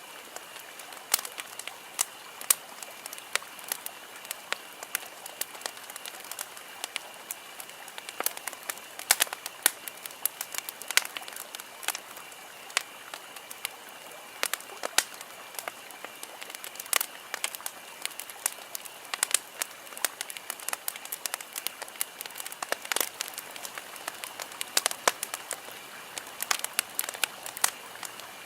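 Wood campfire crackling, with irregular sharp pops and snaps over a steady hiss, and a faint steady high-pitched tone underneath.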